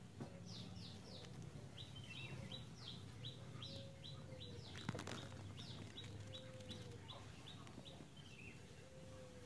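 A small bird calling faintly: three quick high chirps, then a long run of short falling chirps at about three a second. A single knock sounds near the middle.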